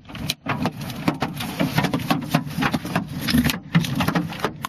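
Ping-pong-ball-sized hailstones pelting down, a dense, irregular clatter of many hard impacts over a steady low rumble.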